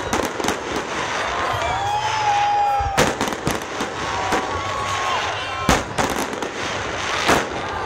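Fireworks salute bursting: three sharp bangs about a second and a half to three seconds apart, over a continuous noisy background, with onlookers' voices rising and falling between them.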